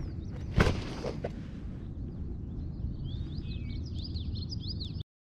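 A sharp knock about half a second in and a lighter one after it, over a steady low rumble. Then a songbird sings a quick run of chirps until the sound cuts off suddenly.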